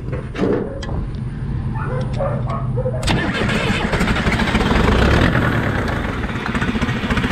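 Case 580 Construction King backhoe engine cranking, then catching about three seconds in and running, getting louder as it picks up.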